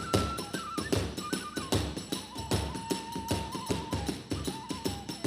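Kagura hayashi accompaniment: a bamboo transverse flute (fue) plays long held notes that step downward in pitch, over quick, steady strokes of the large drum and clashing small hand cymbals.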